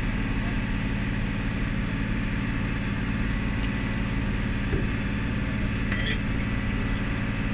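Volvo B9R bus's diesel engine running steadily with an even low hum, and a few light metallic clinks about halfway through and near the end.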